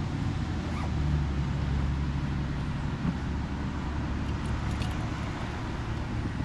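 A vehicle engine running steadily, with a low hum over constant outdoor background noise.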